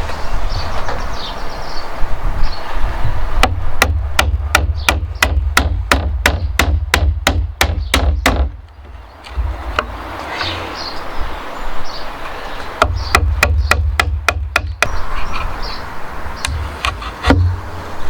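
Hammer blows on timber: a quick run of sharp, even knocks, about four a second, then a brief pause and a shorter run of knocks.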